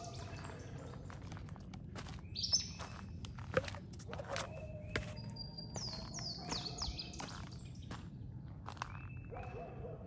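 Woodland songbirds singing, with a quick run of high, falling whistled notes heard twice and other calls between. Footsteps on the dirt trail tick along underneath.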